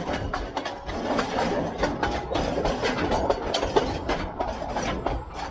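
Narrow-gauge diesel train running: a low engine rumble with irregular rattling and knocks throughout.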